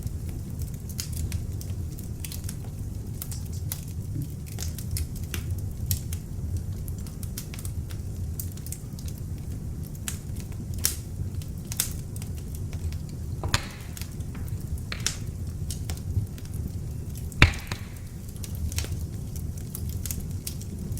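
Beech-wood log fire in an open fireplace crackling, with a low steady rumble of the flames under irregular sharp pops and snaps. The loudest pop comes about three-quarters of the way through.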